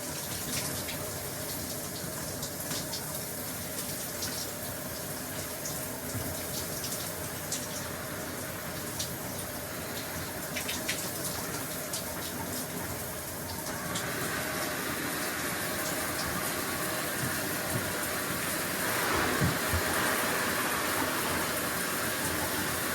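Shower running: a steady hiss of falling water with scattered sharp drip and splash ticks, becoming fuller and a little louder about two thirds of the way through.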